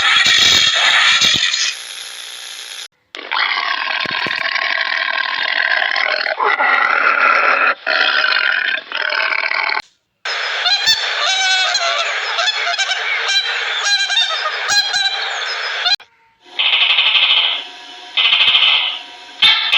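A run of different animal calls in three or four short clips, split by abrupt cuts. The calls are loud and pitched, and near the end short calls repeat about once a second.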